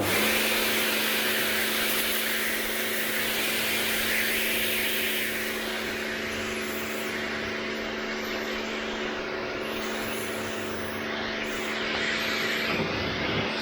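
Pressure washer (water blaster) kicking in abruptly and running with a steady hum, its jet hissing as it sprays the vehicle. The hiss is strongest in the first few seconds and eases a little after.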